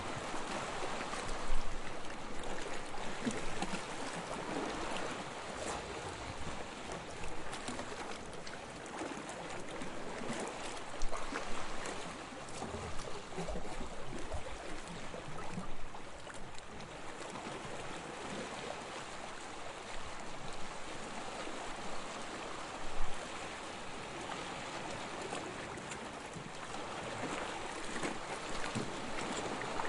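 Small waves lapping on a sandy shore: a continuous soft wash of water, with a few brief, louder splashes here and there.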